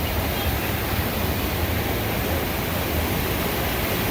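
Little Pigeon River swollen with floodwater after hours of rain, rushing fast and loud in a steady, unbroken wash of noise.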